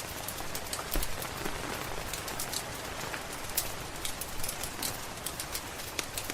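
Steady rain hiss mixed with scattered, sharp pops and crackles of a wood fire, the loudest about a second in.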